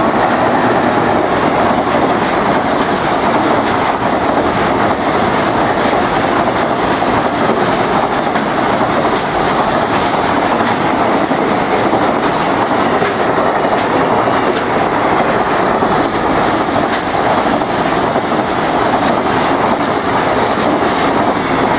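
Fully loaded container freight train hauled by an EF210 electric locomotive passing at speed: a long, steady, loud rush of the container wagons' wheels running on the rails.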